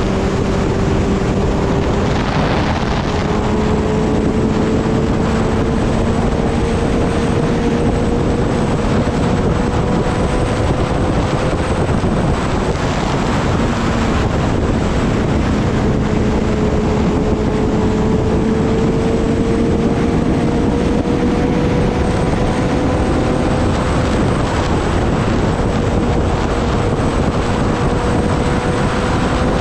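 Kawasaki Ninja ZX-10R's inline-four engine running while riding, under a heavy rush of wind. Its pitch climbs slowly and falls back twice, as with gentle acceleration through the gears.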